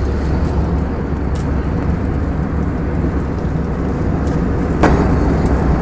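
Steady cabin noise inside an Airbus A321 airliner, a constant low rumble of engines and airflow, with a single sharp click about five seconds in.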